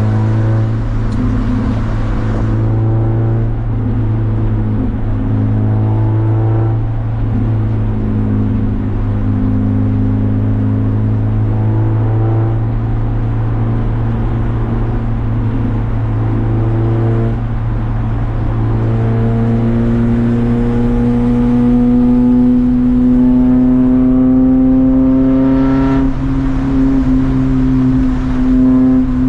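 Race car engine pulling hard through the gears: its note climbs, drops back at each upshift every few seconds, then climbs slowly for several seconds in the second half, over a steady low drone.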